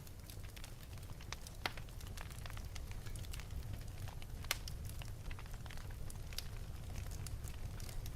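Wood fire burning in an open fireplace: irregular sharp crackles and pops over a steady low rumble of the flames.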